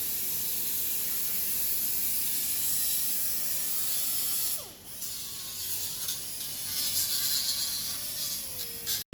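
Shop metalworking on a car's sheet-steel firewall while holes are patched and filled: a steady, rattling hiss with a short break about halfway through, and a faint falling whine near the end.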